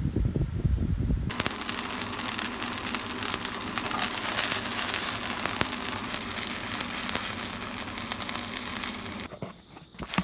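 Oil sizzling and crackling under a vegetable pancake frying in a pan. The sizzle starts about a second in, after a short low rumble, and cuts off near the end.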